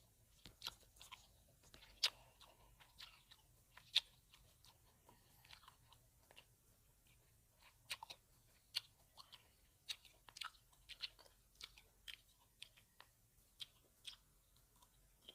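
Grapes being bitten and chewed: irregular crisp pops and wet clicks, some sharp and some soft, with short pauses between.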